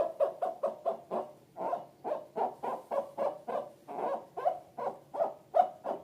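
Slime being squeezed and kneaded by hand, giving short wet squelches in an even rhythm of about four a second.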